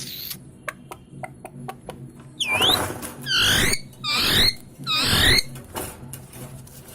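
Parrot squawking: four loud, harsh calls about half a second each, with sliding pitch, after a quick series of short clicks.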